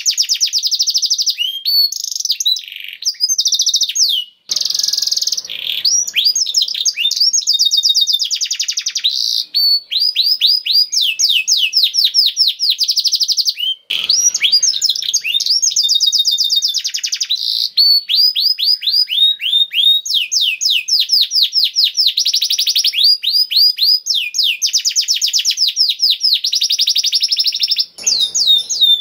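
Domestic canary singing continuously in long, fast trills of repeated high, downward-sweeping notes, changing from one trill to the next, with a few brief breaks.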